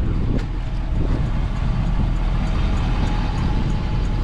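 Heavy truck engine running steadily with a low rumble.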